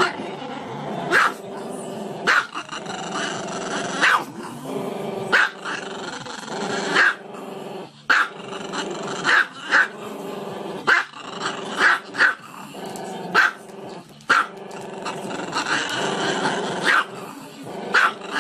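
Small dog howling in long drawn-out notes, broken by short sharp yaps about once a second.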